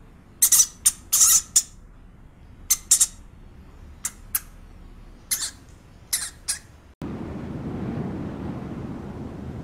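Pet rat eating dry food from a wooden bowl: short, sharp, high-pitched bursts in quick clusters of two or three. About seven seconds in they stop and a steady low rushing noise takes over.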